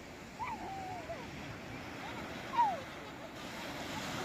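Sea waves washing steadily on the shore. A few short gliding calls cut through, one about half a second in and a louder one a little past halfway.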